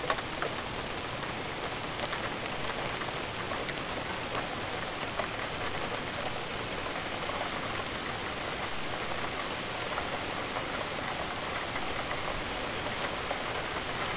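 Steady rain falling, an even hiss with many small, sharp drop hits scattered through it.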